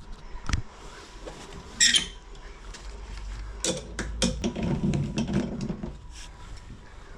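Scattered clicks and knocks, with a short scrape about two seconds in, as tools and stairlift parts are handled.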